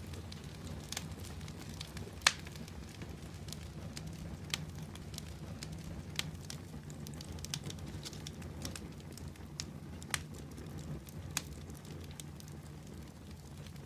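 Fire in a fireplace crackling: scattered sharp pops and snaps, the loudest a little over two seconds in, over a steady low rumble of the flames.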